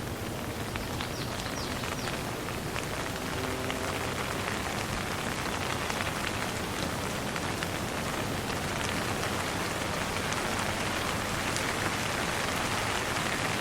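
Steady light rain falling, with many separate drop hits ticking through it.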